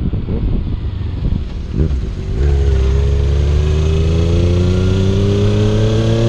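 Wind rushing over the microphone, then about two and a half seconds in a motorcycle engine comes in loud and rises steadily in pitch as it accelerates through a gear.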